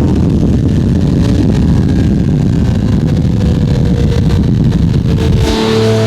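Lamborghini Murcielago LP640's 6.5-litre V12 through a straight-piped Fi exhaust, a loud rough low rumble just after a rising rev. About five and a half seconds in it changes abruptly to a steady hum of a few held tones.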